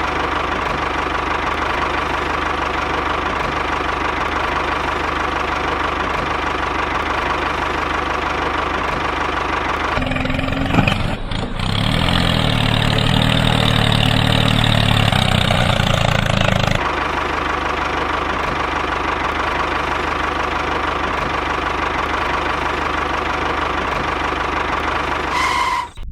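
An engine running steadily, turning louder and deeper for several seconds from about ten seconds in, then settling back to its earlier steady sound.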